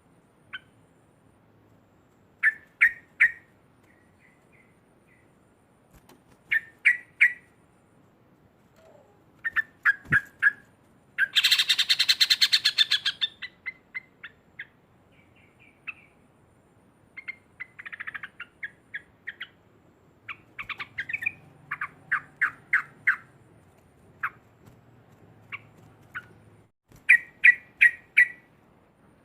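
Yellow-vented bulbul (trucuk) calling in short groups of quick bubbly notes, with one loud, harsh chattering burst about eleven seconds in that lasts about two seconds.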